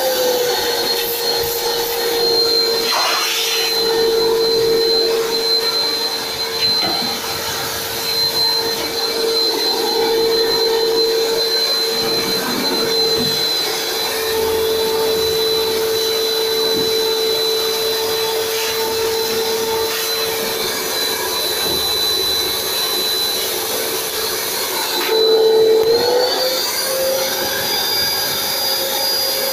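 Phantom vacuum cleaner's newly fitted motor running with a steady whine. Its pitch drops slightly at the start and rises again near the end.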